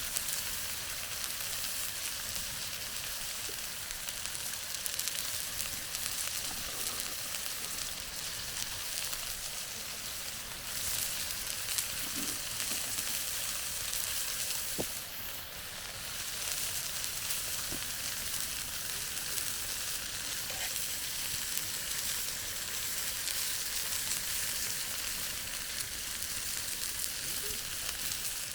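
Chicken frying over a campfire: a steady sizzle, with a few faint ticks scattered through it.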